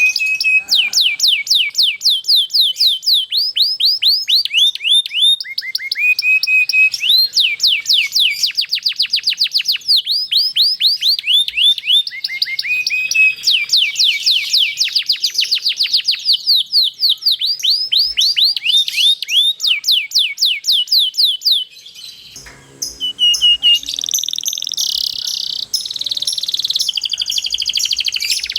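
Domestic canary singing long rolled trills: strings of fast, repeated downward-sweeping notes, changing speed from phrase to phrase. The song breaks off briefly about 22 seconds in, then resumes.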